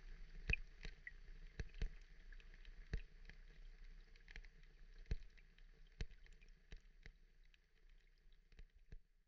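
Water ambience: a faint steady hiss with scattered sharp clicks and drips at irregular intervals, thinning out and fading away near the end.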